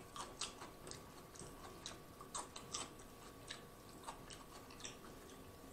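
Faint, irregular wet clicks and smacks of someone chewing food close to the microphone.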